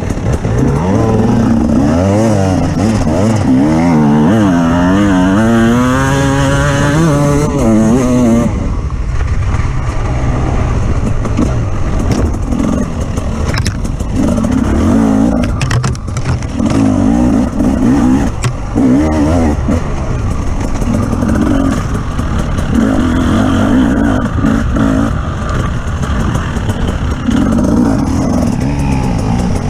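Off-road vehicle engine revving up and down repeatedly for the first eight seconds or so, then surging in a repeated pattern about every second and a half, with scattered knocks and clatter.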